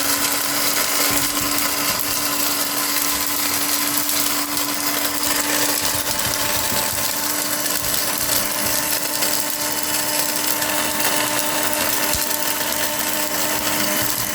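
Electric kitchen blender running at a steady speed, its motor humming as the blades grind a cupful of dog food.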